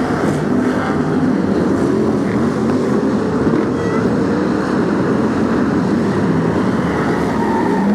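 A pack of BriSCA F1 stock cars racing, their big V8 engines running together in a dense, steady engine noise, with individual engines' pitch rising and falling as they pass.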